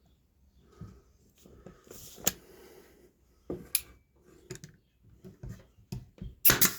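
A string of wooden clicks and knocks as fence-picket slats and spacers are handled and set in place for fastening, with a sharp crack about two seconds in and a louder cluster of cracks just before the end.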